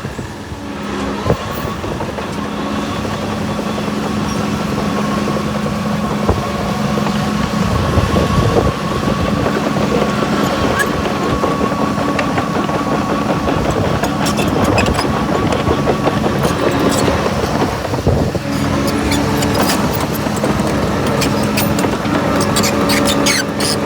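Heavy earthmoving machine's engine running steadily under a constant whine, with scattered clanks and knocks in the second half.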